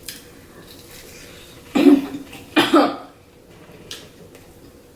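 A person coughing twice, a little under a second apart, brought on by a hot spicy sauce while eating.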